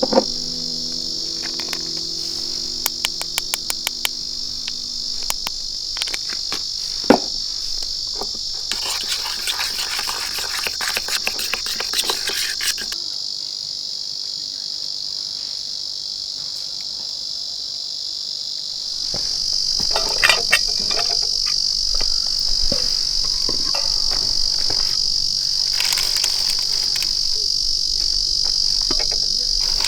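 Steady high-pitched chorus of crickets, growing a little louder about two-thirds of the way in, with scattered light clicks and crackles that come in a dense run about a third of the way in and again a little later.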